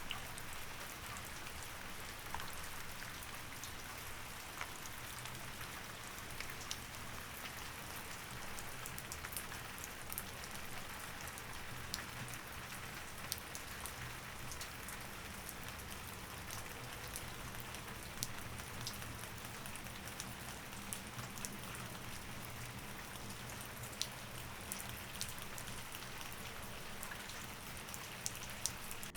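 Steady rain falling, with single drops ticking sharply now and then over a faint low hum.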